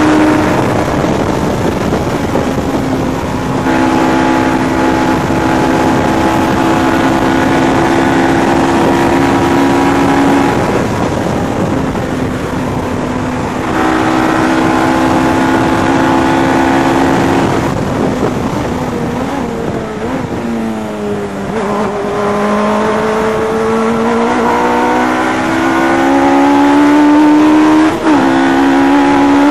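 Westfield Megabusa's Suzuki Hayabusa inline-four motorcycle engine running hard on track, heard from the open cockpit with wind rush: revs held high for several seconds at a time with steps in pitch at gear changes, then falling about two-thirds of the way through as the car slows and climbing steadily again under acceleration, with a quick shift near the end.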